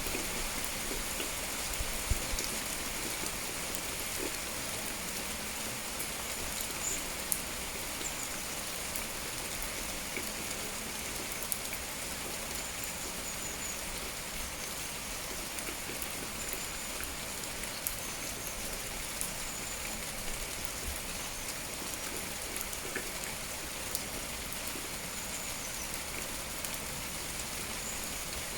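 Steady rain falling, an even hiss with individual drops tapping now and then.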